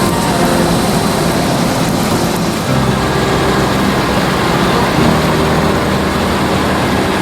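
Claas Lexion combine harvester running steadily under load while harvesting, a continuous mix of low engine hum and machine noise, with a slight change in the engine's pitch about two and a half seconds in.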